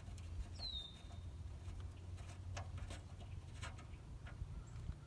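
A bird's single short whistle sliding down in pitch about half a second in, over a faint low hum and a few light clicks.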